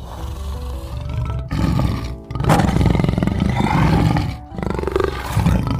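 Tiger roaring and growling in several rough, deep bouts separated by short pauses, over background music.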